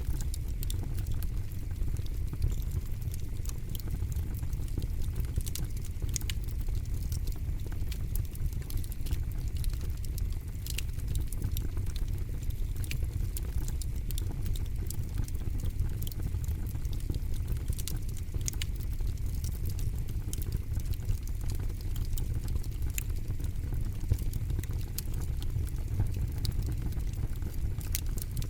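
Campfire burning with a steady low rumble of flame and frequent, irregular sharp crackles and pops from the wood.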